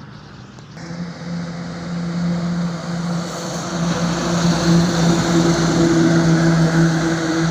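Truck engine running at a steady pitch with a constant hum and road noise, getting louder after about a second in and staying loud.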